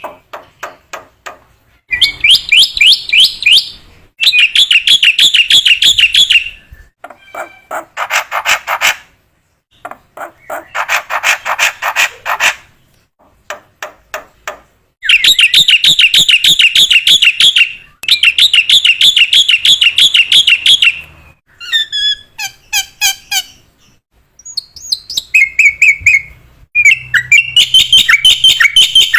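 Black-winged starling (jalak putih) in full song: loud phrases of rapid repeated chattering notes, about eight a second, each phrase lasting two to three seconds with short pauses between.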